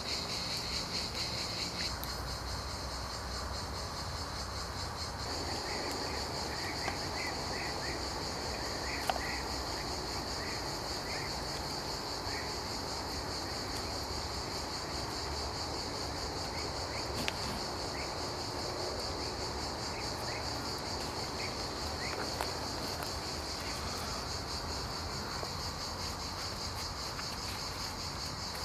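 Crickets chirping steadily in a high, pulsing trill, with a few scattered sharp clicks.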